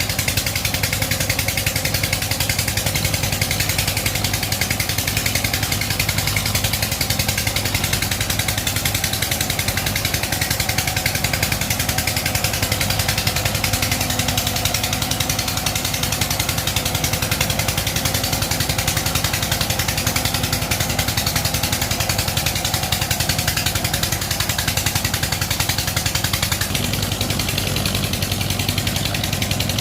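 MTZ Belarus tractor's diesel engine running steadily under load while ploughing, with a dense, even firing beat. Its note shifts about three-quarters of the way through.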